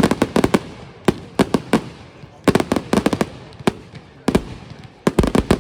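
Firework display: rapid volleys of sharp bangs and crackling reports in quick clusters, with short gaps between the volleys.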